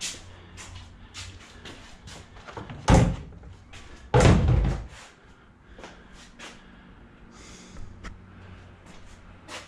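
Small scrap junk being handled and tossed into a container: scattered small clicks and rattles, with two loud thuds about three and four seconds in, the second heavier and longer.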